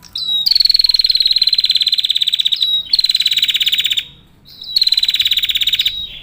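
Female prinia (prenjak) calling in rapid trills of high, evenly repeated notes. There are three runs: the first starts about half a second in and lasts over two seconds, and two shorter ones follow after brief pauses.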